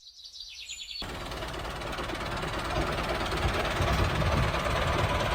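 Tractor engine running steadily with a low rumble, slowly growing louder after about a second of near silence.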